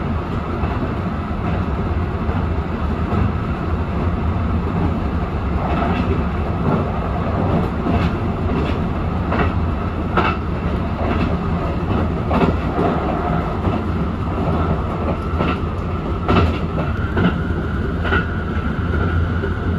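Kintetsu Urban Liner limited express electric train running at speed, heard from inside the front of the train: a steady low rumble with irregular clicks and knocks of the wheels on the track, and a faint high whine that rises slightly in the second half.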